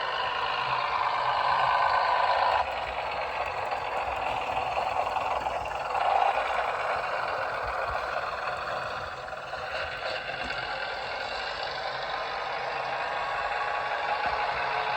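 Sound-fitted Bachmann Class 101 diesel multiple unit model, its sound decoder playing the railcar's diesel engine working up through the gears, heard through the model's small speaker. The engine note drops off sharply about two and a half seconds in, as at a gear change, and swells again briefly about six seconds in.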